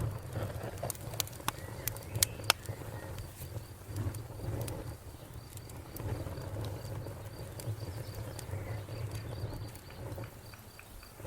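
Wood fire crackling: sharp pops and snaps, thickest and loudest in the first couple of seconds, then scattered, over a low steady rumble.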